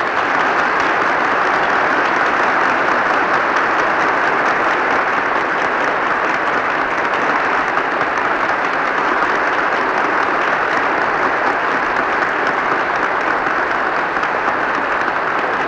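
Large audience of members of Congress applauding, a loud, steady ovation that holds throughout, heard through a 1941 recording transferred from 78 rpm discs.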